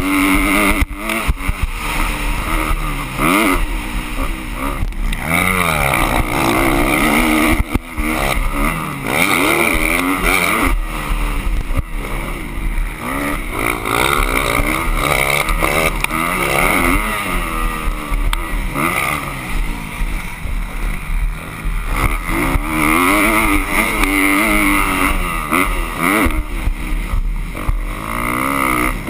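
Motocross bike engines revving up and dropping back over and over as the bikes race, several engines overlapping in pitch.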